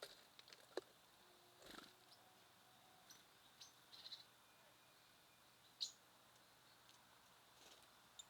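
Small songbirds at a feeder: a scattered handful of short, high chirps and brief sharp clicks, faint over a low background hiss.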